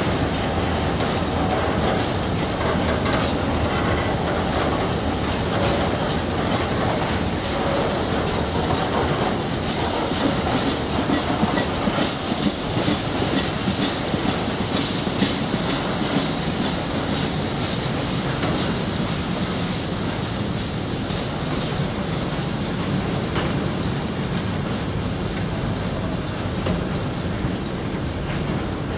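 Loaded container flat wagons of an intermodal freight train rolling past steadily, the wheels clicking and clattering over the rail joints, most densely about halfway through.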